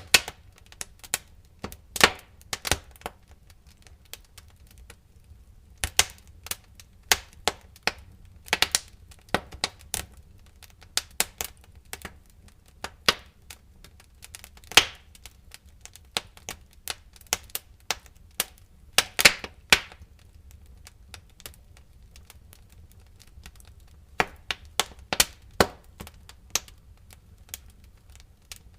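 Wood fire crackling in a fireplace: irregular sharp pops and snaps, some in quick clusters, over a steady low rumble of the flames.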